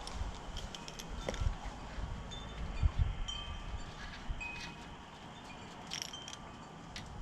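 Screen rolling tool being worked along a screen door frame, pressing spline into the channel, with scattered clicks and a few low soft bumps. Short, high, thin tinkling tones sound on and off throughout.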